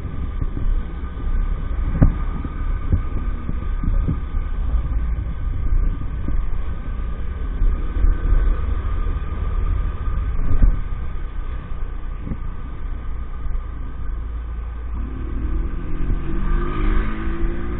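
EAYS Pro 50cc moped being ridden: a heavy steady low rumble with occasional knocks. Near the end the small engine's note climbs as it speeds up.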